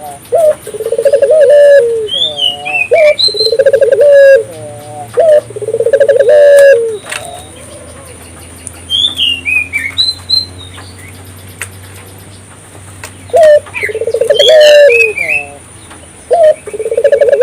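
Puter dove (Barbary dove) cooing loudly in a run of rolling, roughly second-long coos. The coos break off for about six seconds mid-way, then start again. A smaller bird's quick descending chirps sound faintly over the top now and then.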